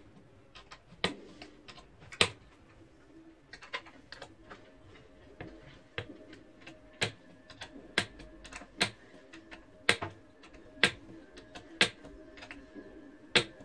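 Sharp, separate clicks or taps, irregularly spaced at roughly one a second, over a faint steady hum.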